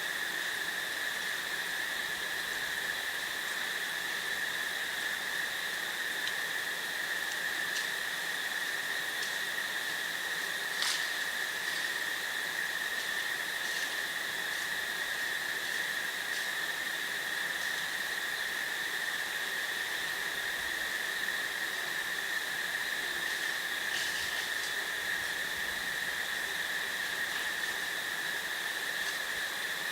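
Steady, unbroken chorus of crickets at one high, even pitch, with a single short sharp click about eleven seconds in and a few fainter ticks.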